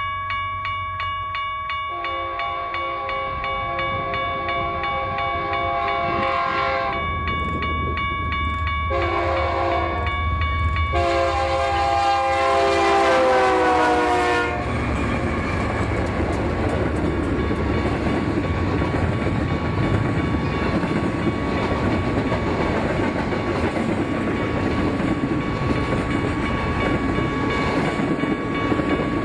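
Locomotive air horn sounding several long blasts as a train approaches, its pitch dropping as the locomotive passes about 14 seconds in. The horn then cuts off and the steady rumble and wheel clatter of the passing train follows.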